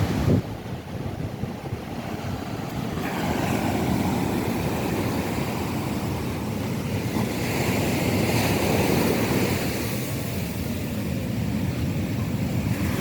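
Rough sea surf washing and breaking on the beach, with wind buffeting the microphone. There is a short loud bump just after the start, and the surf swells louder again near the end.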